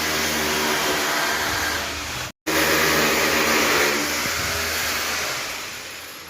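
A power tool's motor running with a loud, steady whir, likely the drill used to fix window grills into the walls. It drops out for an instant about two seconds in and fades away near the end.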